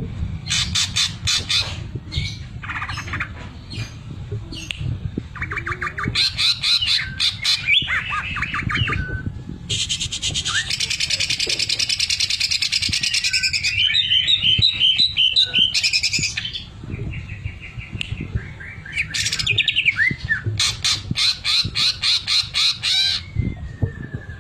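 Green leafbird (cucak ijo) singing loudly, its song packed with rapid machine-like rattling trills: the 'sewing machine' fill (isian mesin jahit) that it imitates. A long harsh, dense passage comes about ten seconds in, and the trills return near the end.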